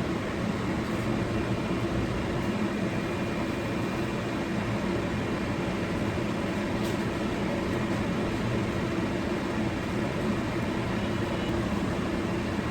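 A steady whirring drone, like a kitchen exhaust fan, with a faint click about seven seconds in.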